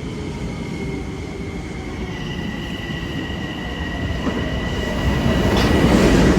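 A Metro-North electric commuter train approaching, its rumble growing steadily louder, with a steady high-pitched whine or squeal from about two seconds in.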